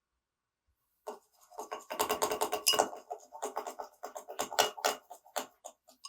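A utensil scraping and clicking against a container in a fast run of short strokes, several a second, starting about a second in.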